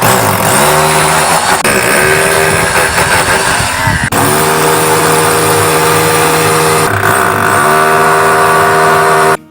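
A loud motor running steadily, its pitch dipping briefly and spinning back up a few times.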